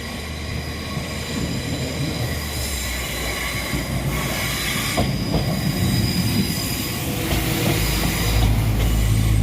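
Train approaching on the rails, its wheels squealing in several steady high tones as the sound slowly grows, with a low diesel engine rumble coming in strongly near the end.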